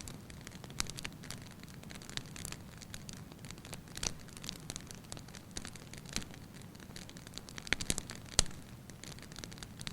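Wood fire burning in a fireplace, crackling with irregular sharp pops over a steady low rumble; one loud pop comes late on.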